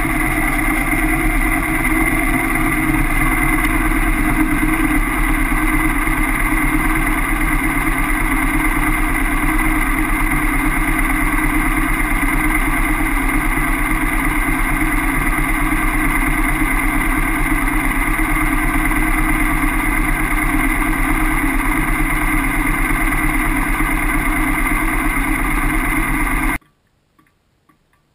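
Kawasaki KLR650 single-cylinder engine idling steadily while the bike stands still, picked up close by the camera mounted on it. The sound cuts off suddenly near the end.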